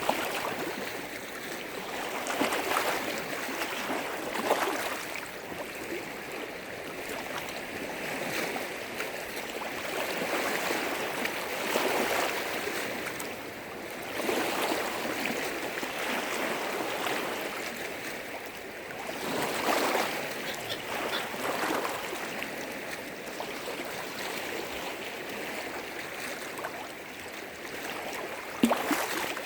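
Small waves on a large freshwater lake breaking and washing against the shore, swelling and easing every few seconds, with a brief sharper splash near the end.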